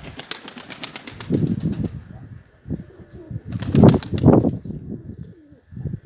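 Pigeons' wings flapping in a rapid clatter over the first two seconds and again, louder, near the middle, with pigeons cooing between.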